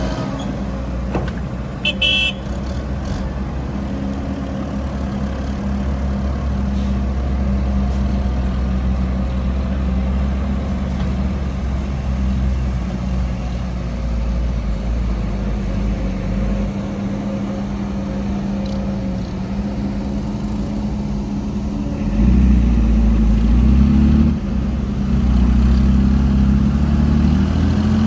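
Heavy diesel engines of an excavator and dump trucks running steadily, the engine sound growing louder for about two seconds some 22 seconds in as a machine works harder. A short high beep about two seconds in.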